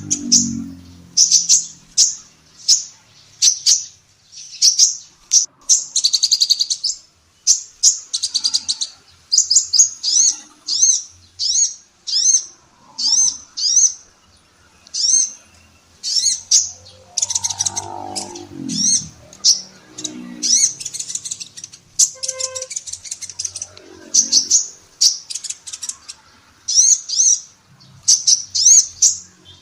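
Female kolibri ninja sunbird singing a fast, continuous series of short, high, sharp chirps and downward-sweeping notes, about two a second.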